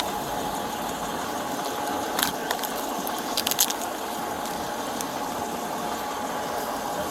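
Vehicle engine idling steadily, with a few sharp clicks and rattles about two seconds in and again around three and a half seconds.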